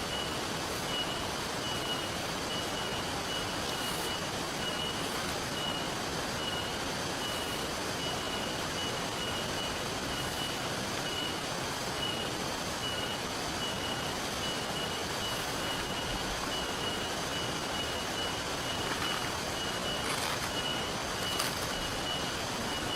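Steady rain and flowing river water make a constant hiss. Over it, a thin high-pitched chirp pulses in short runs with pauses between them.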